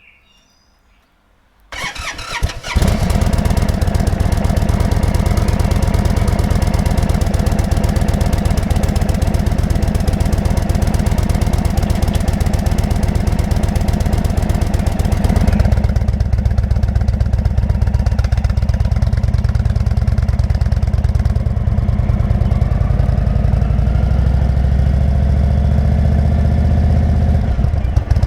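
Motorcycle engine cranked by the starter, catching after about a second, then idling steadily; about halfway through the idle turns deeper and heavier in the low end.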